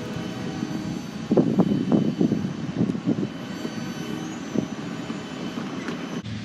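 A train running past: a steady mechanical rumble with several steady tones and a few thin high tones above it, swelling in uneven louder pulses between about one and three seconds in.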